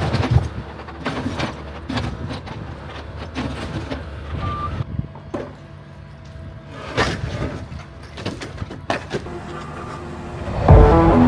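Excavator's diesel engine running steadily, with irregular knocks and clatter of demolition work. Guitar music starts near the end.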